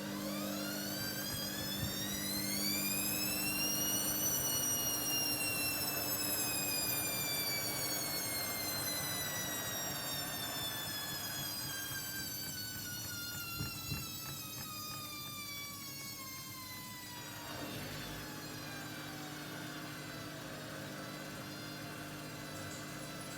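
Hoover Dynamic Next washing machine's motor speeding up the drum with a rising whine for about four seconds, then slowing down with a long, gradually falling whine that fades out about twenty seconds in. Two light knocks come near the middle.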